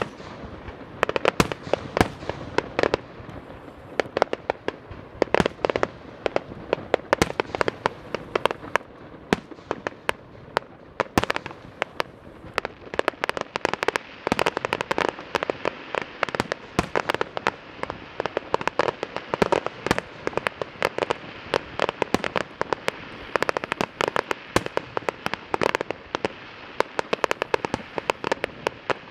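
Fireworks display: aerial shells bursting in quick, irregular succession, dense bangs over continuous crackling, with no letup.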